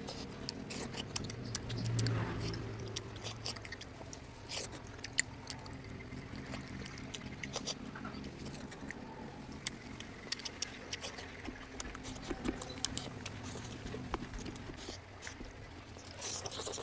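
Close-miked eating sounds: wet chewing with many small mouth clicks and smacks while a curry meal is eaten.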